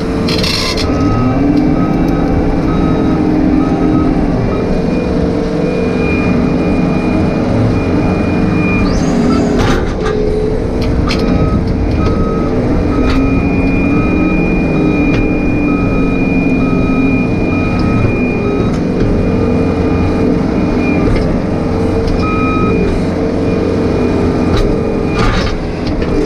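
John Deere 135 excavator's diesel engine running under working load, its pitch rising and falling, with the travel alarm beeping about twice a second in two runs as the machine tracks.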